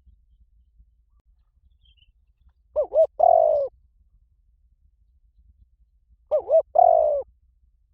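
Spotted dove cooing, a call of the kind used to stir a decoy dove into answering. It gives two phrases a few seconds apart, each two short coos followed by one longer coo.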